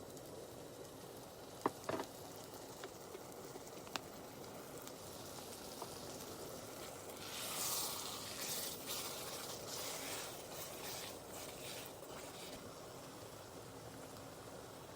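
Tomato curry simmering and sizzling in a pan after a little water has been stirred in, with a few light clicks near the start; the sizzle grows louder for a few seconds around the middle.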